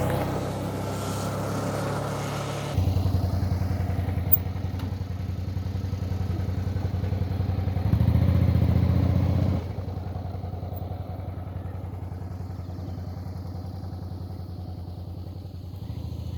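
Suzuki V-Strom 650's V-twin engine running as the motorcycle rides along a dirt road. The engine note changes suddenly about three seconds in, is loudest for a couple of seconds in the middle, then drops back and fades slightly toward the end.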